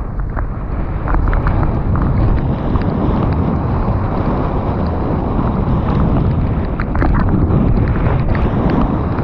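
Wind rushing over the microphone on a fast mountain-bike descent, over the rolling noise of tyres on a wet trail, with scattered clicks and rattles from the bike.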